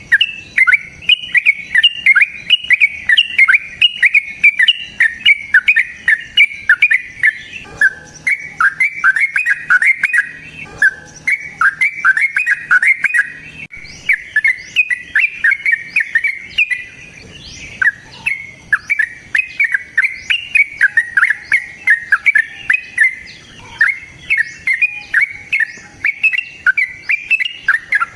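Lovebird giving a long, rapid chattering call (the 'ngekek panjang' prized by lovebird keepers): sharp, falling shrill notes about three or four a second, running almost unbroken with a few short breaks.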